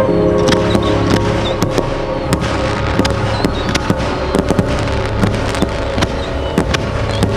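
Fireworks going off in quick succession, many sharp pops and bangs scattered through, over background music with long held notes.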